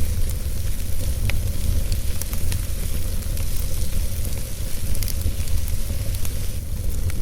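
Wood fire burning in a fireplace: a steady low noise and hiss with scattered sharp crackles and pops, one louder pop about a second in.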